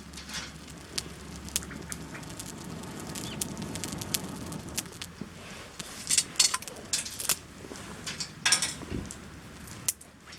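Wood campfire crackling, with scattered sharp pops and a few denser clusters of snaps over a low steady rush.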